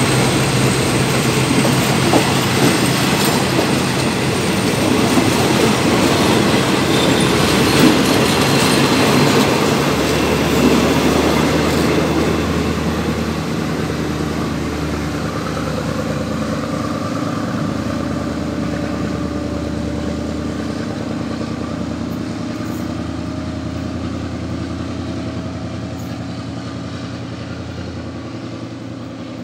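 Passenger coaches of a State Railway of Thailand train running past on the rails, loud at first and then fading steadily as the train pulls away down the line.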